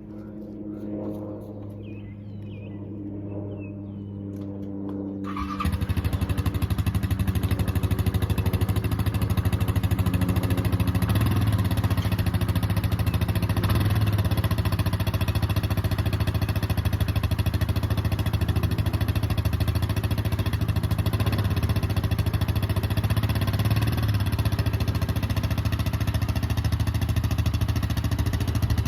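ATV engine running steadily, fainter at first. About five seconds in it becomes much louder and closer, and it runs on with a rapid, even firing pulse.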